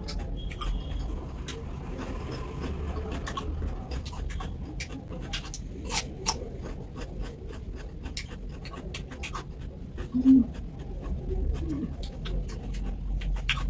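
Close-miked crunching of raw cucumber slices being bitten and chewed: irregular crisp crunches. About ten seconds in comes a short low hum, the loudest moment.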